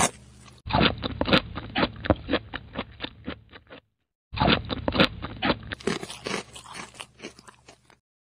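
Chewing sound effect for a cartoon eating pizza: a quick run of loud, crunchy bites and chews that thins out, breaks off briefly just before the middle, then starts again and tapers away about a second before the end.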